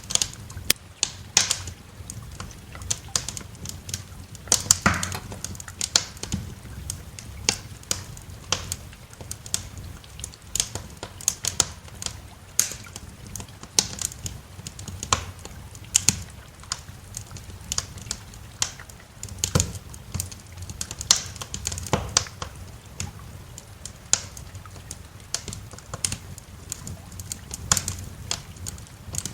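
Wood fire in a fireplace crackling, with irregular sharp pops and snaps, a few louder than the rest, over a steady low rumble.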